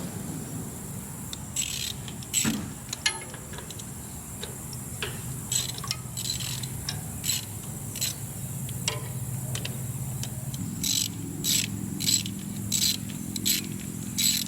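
Ratchet wrench clicking in short strokes with a few scrapes of metal as spark plugs are worked loose from the Farmall Super A engine, over a steady high insect whine.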